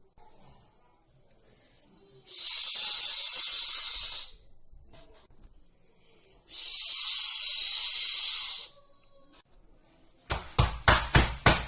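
A person making two long breathy hissing sounds of about two seconds each, a couple of seconds apart. Near the end, a quick run of about ten sharp hand strikes.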